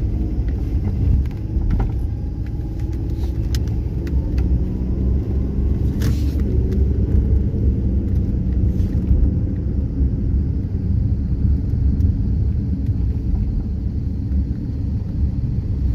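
Steady low rumble of a road vehicle in motion, with a faint wavering engine hum and a few light clicks, one about six seconds in.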